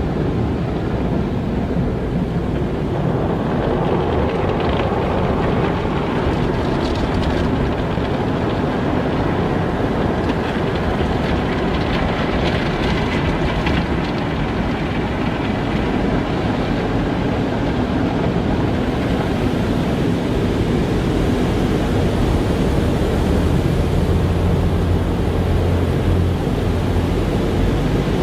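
Car wash running: a steady, dense low rumble with a hiss above it. The hiss grows brighter about two-thirds of the way through.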